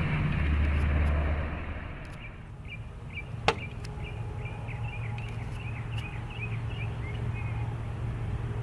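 Sikorsky HH-60G Pave Hawk helicopter, loud with a deep rotor rumble for the first two seconds, then falling to a lower steady hum. A sharp click comes about three and a half seconds in, with a run of short high chirps around it.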